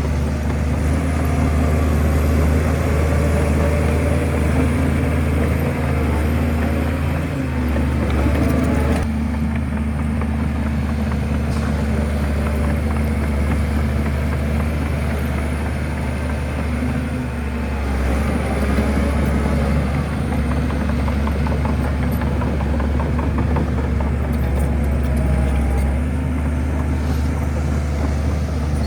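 Shantui bulldozer's diesel engine running steadily at work, a continuous low drone with rattling noise above it that eases off about nine seconds in.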